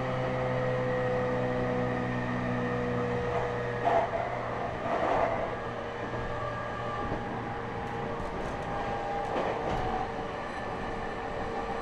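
Electric commuter train running on the line: steady running noise with several steady humming tones, and a few louder clatters about four and five seconds in.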